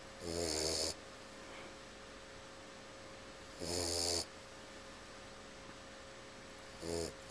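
Boxer puppy snoring in her sleep: three short snores, each about half a second long, coming about three seconds apart.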